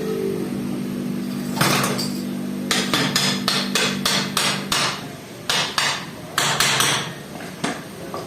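Hammer blows, struck in quick runs of about three a second with short pauses between the runs.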